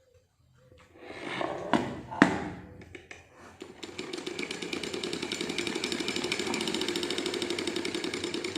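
A couple of sharp knocks, then an old, freshly oiled household sewing machine runs fast with a rapid, even clatter from about four seconds in. It runs easy and soft, as a machine should once cleaned and oiled.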